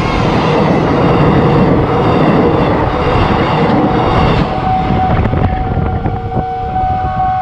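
Electric trains rolling past at close range over a level crossing, a dense rumble of wheels on the rails. About four and a half seconds in the rumble thins out and steady warning tones take over.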